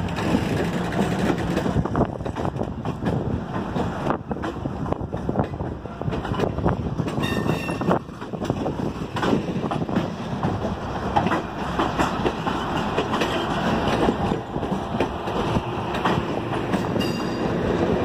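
Circus train's cars rolling steadily past close by, the wheels clacking and rattling over the rails.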